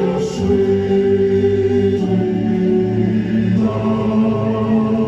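Live band music: loud, sustained chords held between speech, shifting to a new chord about every second and a half.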